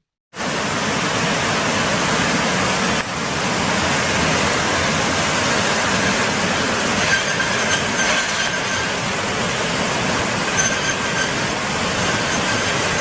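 Loud, steady rushing of fast-moving floodwater that starts abruptly, with a brief break about three seconds in and faint high squeals in the later part.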